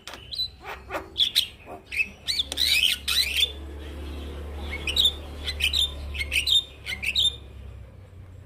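Male Javan myna (jalak kebo) singing in full voice: a rapid run of short whistles, clicks and harsh chattering notes, broken by a pause of about a second midway and stopping about a second before the end.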